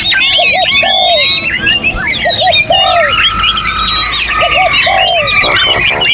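Several songbirds singing at once in a dense chorus of overlapping whistles, slurred glides and trills, with a low three-note phrase repeating about every two seconds beneath them.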